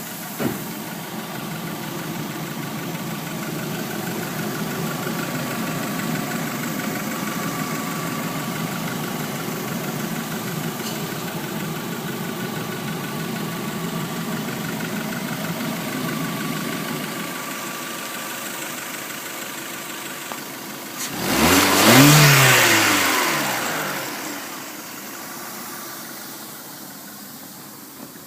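Volkswagen Polo engine idling steadily, then revved once near the end, the pitch shooting up and falling back to idle. A short knock sounds just after the start.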